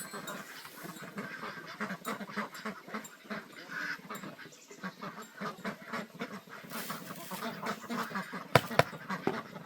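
Domestic waterfowl calling, a busy run of short calls, with two sharp knocks close together near the end.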